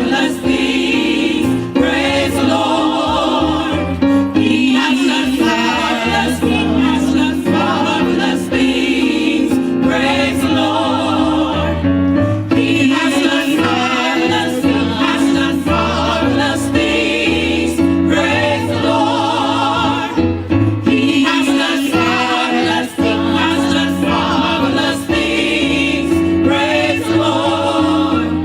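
Gospel choir singing with instrumental accompaniment, voices rising and falling in melismatic lines over a steady bass.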